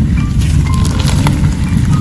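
Slime being squished and worked by hand, with scattered crackling, clicking pops over a dense low rumble.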